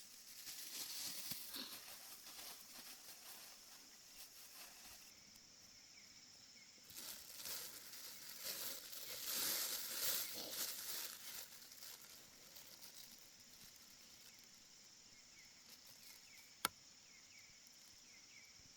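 Bouts of rustling and crinkling, loudest near the middle, with one sharp click near the end, over a steady high insect drone.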